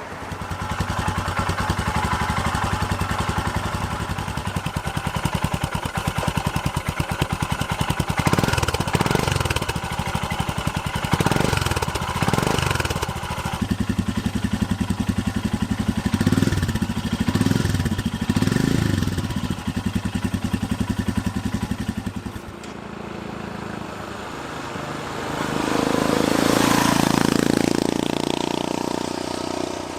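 Royal Enfield Himalayan's single-cylinder engine running through a Lextek end-can exhaust with its baffle in, a muted thud, while the bike is ridden. The revs rise and fall several times. After about twenty-two seconds the engine note drops away, and a broader swell rises and falls near the end.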